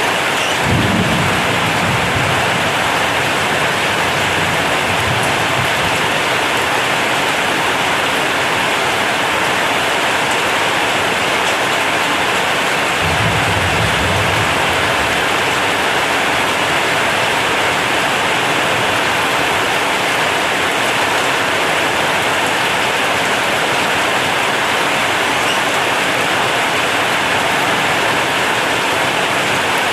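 Heavy rain drumming steadily on a corrugated zinc sheet roof, a dense even hiss. Two short low rumbles come through, one about a second in and one around the middle.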